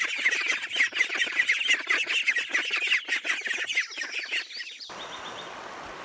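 A flock of ducks calling: a dense chatter of many short, quick, overlapping calls. About five seconds in it cuts off and gives way to the steady rush of a shallow stream.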